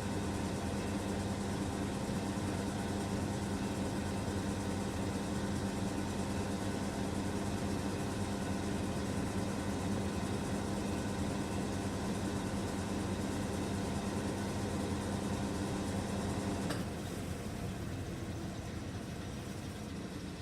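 SANYO sneaker washing machine running its spin-dry cycle: a steady motor hum with a low drone. About 17 seconds in there is a click and the hum drops away as the spin stops, leaving a quieter steady noise.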